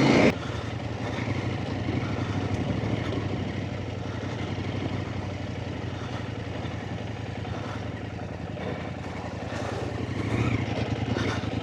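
Off-road trail motorcycle engine running steadily at low revs, picking up a little near the end.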